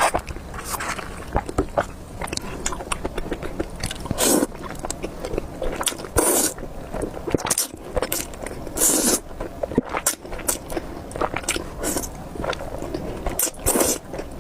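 Close-miked eating of spicy beef noodles: irregular bites and chewing, with a few louder noisy bursts about four, six and nine seconds in and again near the end.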